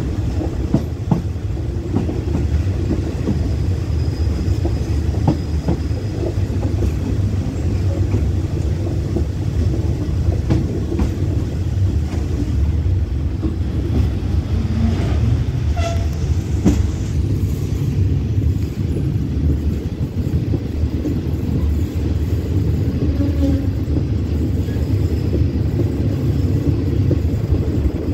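Express passenger train running on the rails, heard from an open carriage window: a steady low rumble of the wheels with scattered clicks.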